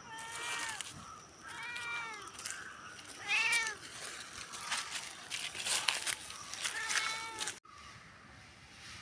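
A domestic cat meowing four times, each meow rising and then falling in pitch. Scattered short clicks come between the third and fourth meows.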